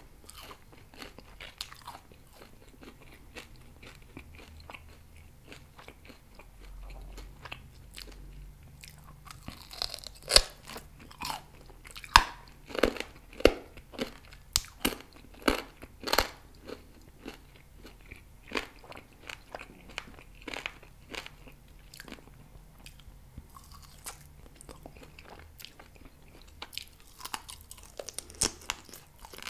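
Close-miked chewing of grilled pork rib meat: a string of sharp, wet mouth clicks and smacks, loudest and most crowded in the middle. Near the end another bite of rib goes into the mouth and the clicks pick up again.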